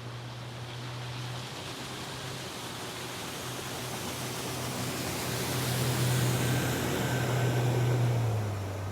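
Boat motor running steadily with a hiss of water and wind over it. Its note drops slightly near the end as it throttles back.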